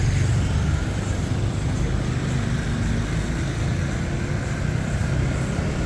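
Steady low rumble of road traffic on a street.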